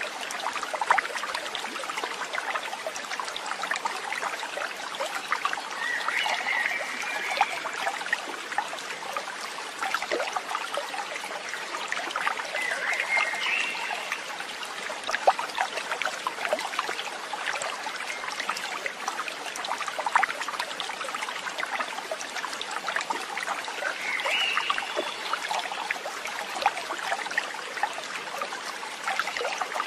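Stream water trickling and flowing steadily, with three short chirping animal calls about 6, 13 and 24 seconds in.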